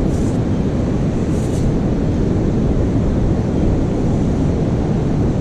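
Wind buffeting the microphone at the beach, a loud, steady rumble, with two brief hissing sounds near the start.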